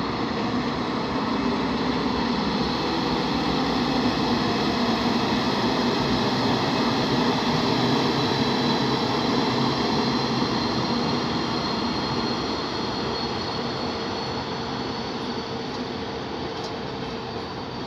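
A train moving along the platform tracks, its running noise growing louder to a peak midway and then fading, with a steady high whine over it.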